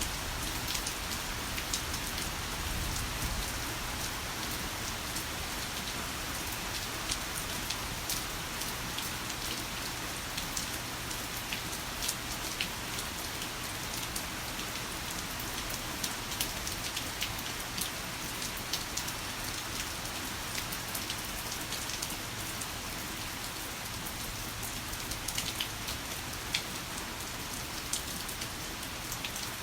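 Heavy rain falling steadily, with many sharp individual drops ticking close by.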